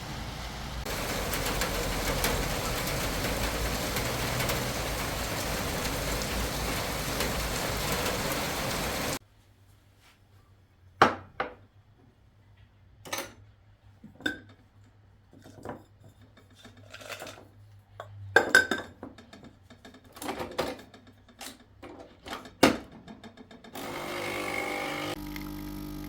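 Steady rushing noise that cuts off suddenly about nine seconds in. Then scattered sharp clicks and clinks of hard objects being handled, about a dozen, some of them ringing briefly.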